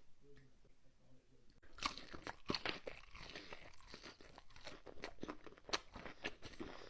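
Close-miked crunchy eating: a person bites and chews something crisp, with a dense run of sharp crunches starting about two seconds in and easing off near the end.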